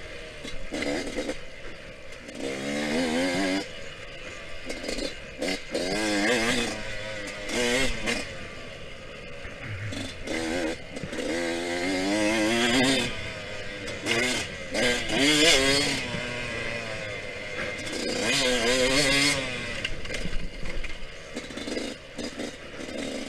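Yamaha YZ125X's 125cc two-stroke engine revving hard under the rider, its pitch climbing and dropping again and again as it accelerates and shifts, with rattles and clatter from the bike in between.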